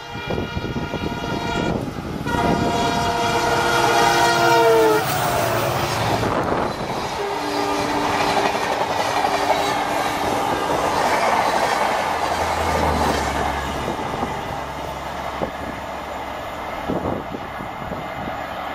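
EMD diesel locomotive at the head of a Shatabdi Express sounding its multi-note air horn as it approaches at speed, the chord dropping in pitch as it passes. The coaches then rush past with rail clatter, and a shorter two-note horn sounds again.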